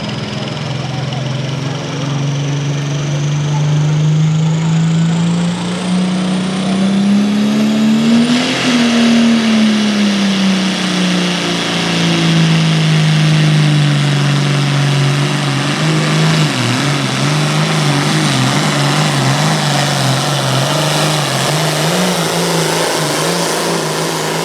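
Turbocharged diesel engine of a classic super stock pulling tractor at full throttle on a pull. Its pitch climbs for about eight seconds over a rising turbo whistle, then sags as the engine is pulled down by the sled's load. In the last seconds the pitch wavers up and down.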